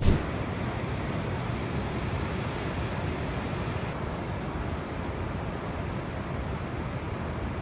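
Loud, steady rushing noise of a storm field recording: wind on the microphone with rough water, starting abruptly.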